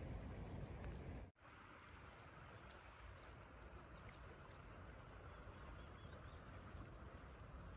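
Near silence: faint, steady outdoor background noise with a few small ticks, broken by a brief dropout about a second in where the audio is cut.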